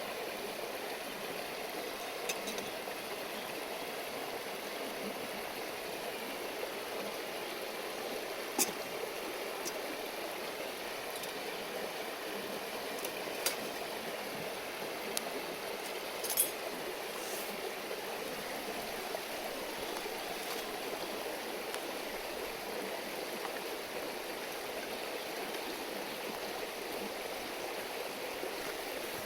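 A river flowing with a steady murmur, and a few sharp pops from a wood campfire scattered through, the loudest a little past the middle.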